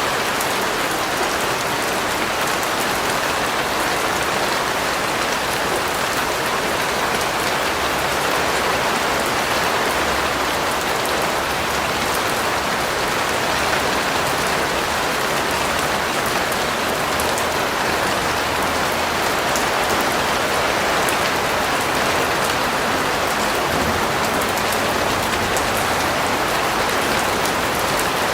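Steady rain falling, an even hiss of drops pattering on a surface with no change in strength.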